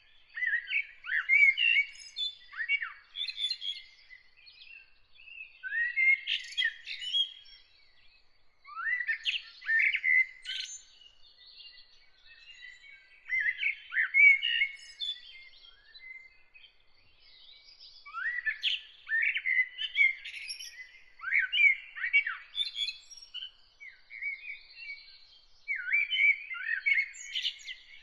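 Songbirds singing in short, varied phrases of a second or two, separated by brief pauses, with a faint steady high-pitched trill behind them.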